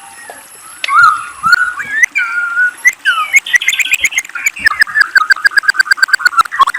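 White-rumped shama (murai batu) singing. After a brief lull it gives varied clear whistled phrases, then from about three seconds in a fast run of repeated notes, about eight a second, with sharp clicking notes mixed in.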